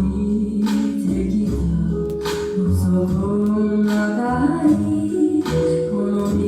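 Slow song with long held sung notes in harmony over a low, steady accompaniment.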